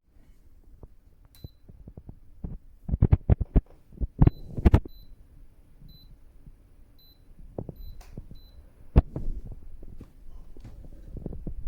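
Short, high electronic beeps, about seven of them spread through the first eight seconds, like button presses on a touch control panel. They come among irregular low knocks and thumps from the unit being handled; the loudest thumps are a cluster a few seconds in and a single one about nine seconds in.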